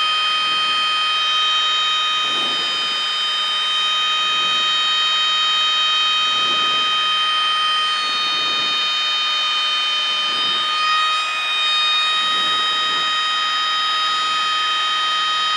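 Cessna 152's reed-type stall warning horn sounding one steady high tone without a break, over the engine running at reduced power. The horn means the wing is close to its stalling angle: the aircraft is flying at about 40 knots and starting to buffet.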